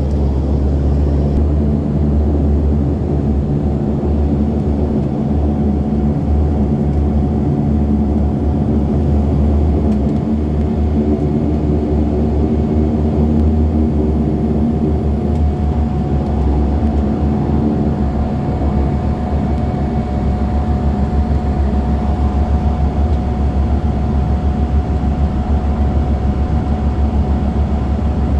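Cabin noise of a Rex Airlines airliner on the ground after landing: its engines give a steady loud drone with a deep hum and several held tones.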